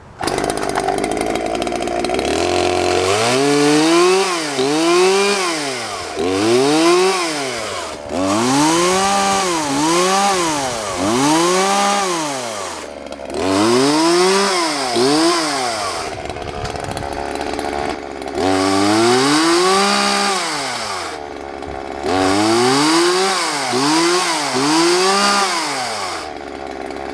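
Homelite Ranger two-stroke chainsaw idling, then revved again and again, its pitch rising and falling with each throttle squeeze, in runs of several revs with brief drops back to idle between them. It runs smoothly and revs cleanly.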